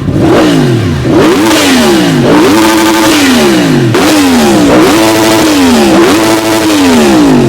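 Yamaha MT-10 SP's crossplane inline-four engine with an Akrapovic titanium exhaust, revved in a series of about six or seven quick throttle blips while standing. Each blip rises sharply and then falls back more slowly. The exhaust is loud.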